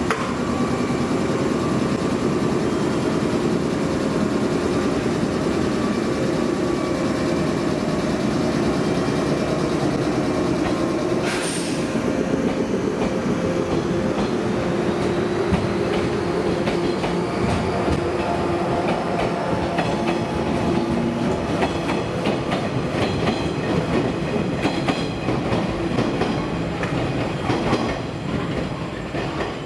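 Train moving on the station tracks: a steady rumble of wheels and running gear, turning to a quick clatter of wheels over rail joints and points in the last ten seconds. A brief sharp noise comes about eleven seconds in.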